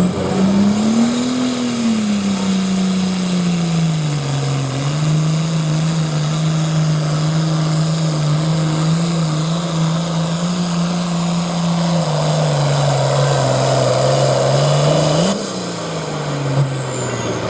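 Turbocharged diesel of a hot farm pulling tractor running hard and steady under load, with a high turbo whistle over it. About fifteen seconds in it lets off: the sound drops and the whistle falls away.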